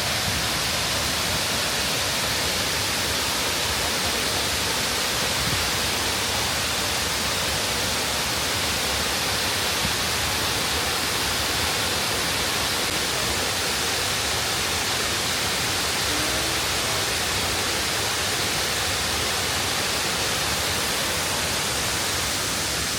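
Waterfall: falling water makes a loud, steady rushing noise that does not change.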